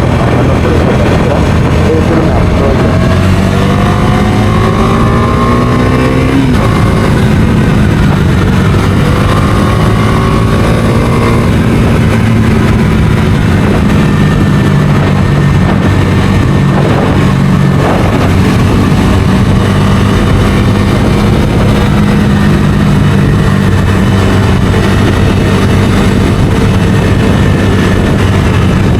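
Bajaj Dominar 250 single-cylinder engine under way on the road. Its pitch climbs for a few seconds, drops back sharply about six or seven seconds in, then holds steady.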